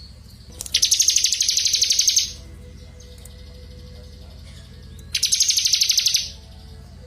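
A small songbird gives a rapid trill of quick, evenly repeated notes. The trill comes twice, each lasting about one and a half seconds, with a few seconds' pause between.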